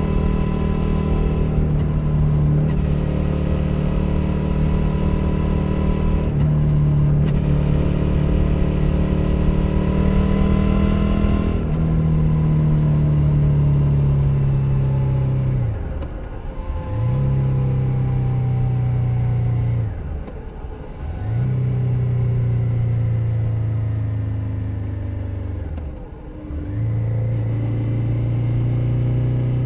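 2021 Suzuki SV 650's 645 cc V-twin engine heard from under the seat while riding, pulling up through the gears: the engine pitch climbs and steps down three times in the first dozen seconds, then runs steadily with three brief dips in engine sound as the throttle is eased.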